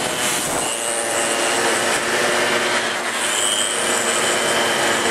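Small motorcycle engines running hard at high revs with a steady drone and a high hiss over it.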